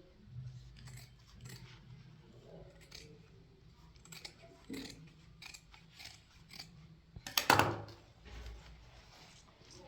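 Scissors snipping in short, irregular cuts, with one louder clack about seven and a half seconds in.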